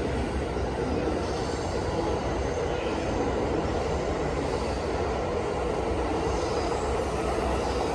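Saikyo Line electric commuter train running along the platform as it pulls out, a steady rumble of wheels and motors.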